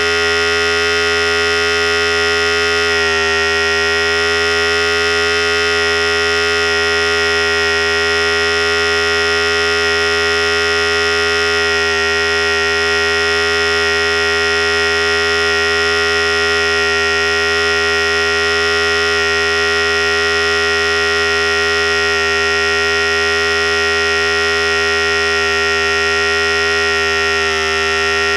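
Philips Series 5000 electric hair clipper running steadily with a constant buzzing hum.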